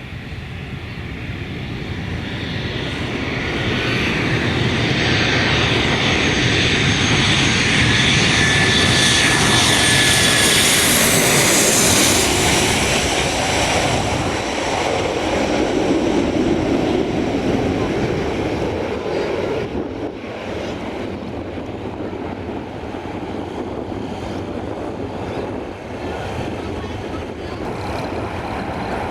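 Jet airliner passing close by: engine noise swells over several seconds to a loud peak with a steady high-pitched whine, then drops in pitch and fades to a lower rumble as it moves away.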